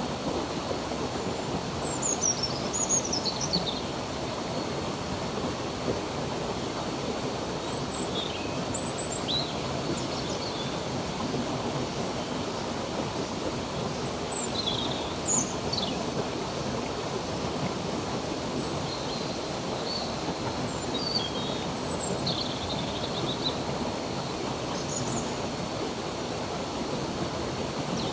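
Steady rush of a flowing stream, with birds chirping intermittently over it in short high calls and quick falling whistles.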